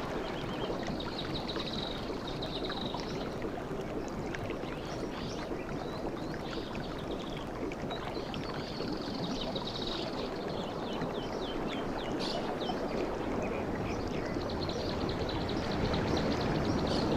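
Sea surf on a beach: a steady rush of waves and washing water, with a higher hiss that comes and goes three times.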